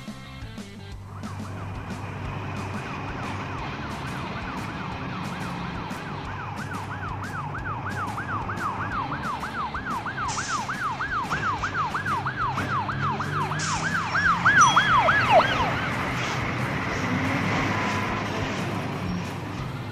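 Fire truck siren in a fast yelp, its pitch swinging up and down about three times a second. It grows louder, then drops in pitch and cuts out about fifteen seconds in, over a low vehicle engine rumble.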